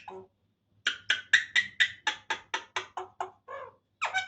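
Pet myna making a rapid run of clicking, knock-like notes, about five or six a second, starting about a second in and ending with a lower note.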